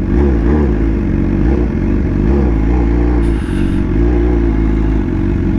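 BMW S1000R's inline-four engine running on the move, its pitch rising and falling a little with the throttle, over a heavy low rumble.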